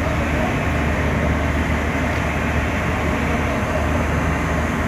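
Steady, deep running noise of a moving train, even throughout.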